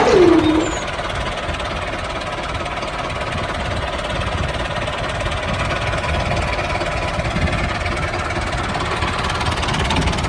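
A whine slides down in pitch and fades in the first half-second, then a small engine runs steadily with a dense, even rumble.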